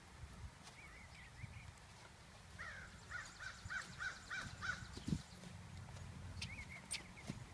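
A bird calling outdoors: a quick run of about seven repeated chirping notes a few seconds in, with a few scattered notes before and after, over a low steady rumble and a single soft thud about five seconds in.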